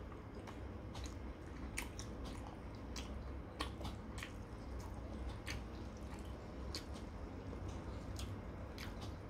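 Close-up wet mouth sounds of a man chewing a mouthful of sliced pork, with irregular lip smacks and clicks about once a second.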